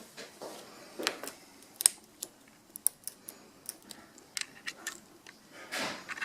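Scattered sharp clicks and light knocks of small objects being handled, the loudest about two seconds in.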